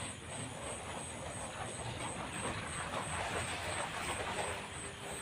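Crackly rustling, like movement through dry undergrowth, strongest past the middle, over a night insect's thin high chirp repeating about twice a second.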